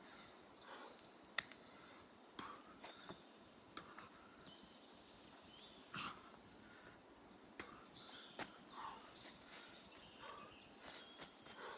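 Faint forest ambience: scattered short bird chirps and calls, with a few sharp clicks, the loudest about a second and a half in.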